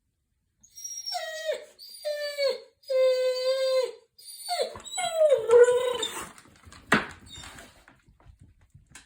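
A dog vocalising in a run of about five drawn-out, whining calls, each holding its pitch and dropping at the end, followed by a sharp click about seven seconds in.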